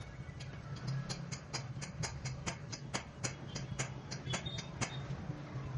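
A rapid, regular series of sharp clicks, about four a second, stopping near the end, over a steady low hum.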